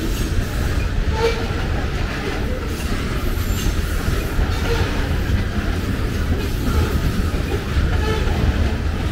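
Covered hopper cars of a freight grain train rolling past, a steady, continuous rumble of steel wheels on the rails.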